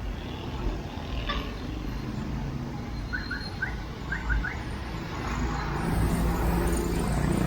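Road traffic: a steady low engine rumble that swells near the end as a vehicle passes close. A few short, high chirps come about halfway through.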